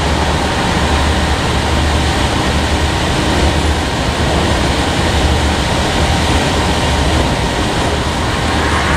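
Freight train rolling past at steady speed, its cars making a continuous loud noise with a pulsing low rumble.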